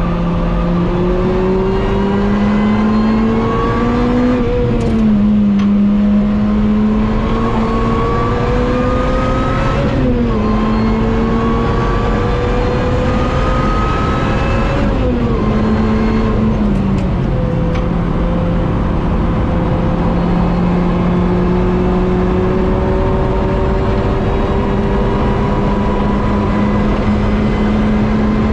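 Onboard sound of a Lotus Exige S's supercharged engine at full throttle on a race track. Its pitch climbs and drops sharply at gear changes about 4, 10 and 15 seconds in, falls again near 17 seconds, then climbs slowly through the second half. The engine is down on power: the owner puts this down to a torn shaft seal that left the supercharger belt greasy.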